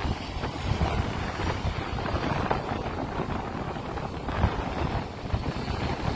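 Strong 20 to 30 mph wind buffeting the microphone, a low, uneven rumble that swells and falls with the gusts.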